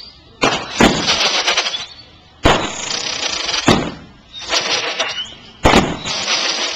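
Consumer aerial fireworks going off in quick succession: six sharp bangs, each followed by about a second of crackling hiss.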